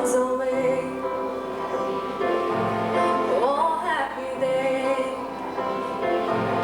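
Live gospel-style singing, voices together with accompaniment, holding long notes; about halfway through a solo voice slides up in a quick run and back down.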